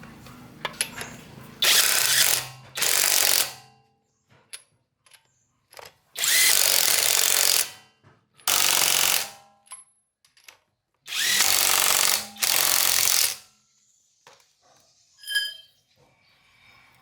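A power tool run in short bursts: six runs of about a second each, in three pairs, with pauses between.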